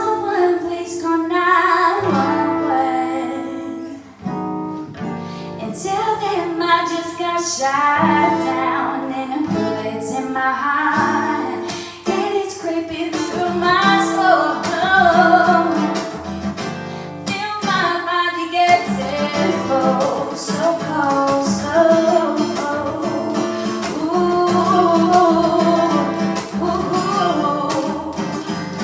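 A song sung to acoustic guitar, the voice carrying the melody over steady strumming and plucked chords.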